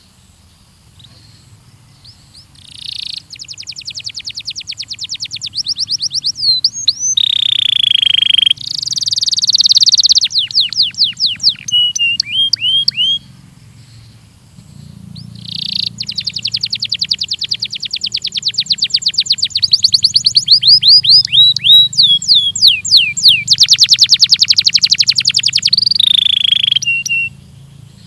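Belgian canary singing: fast trills of repeated downward-sweeping notes and rolling phrases. The song comes in two long runs, one starting about three seconds in and one starting about a second after a brief pause in the middle.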